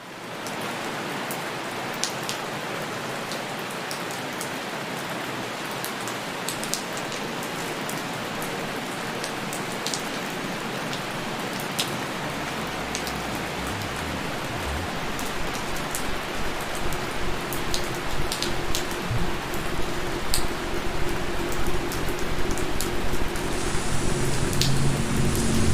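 Steady rain falling, with scattered sharp drips standing out. About halfway through a low rumble swells in, and near the end soft, steady low tones of background music fade in as the whole grows slowly louder.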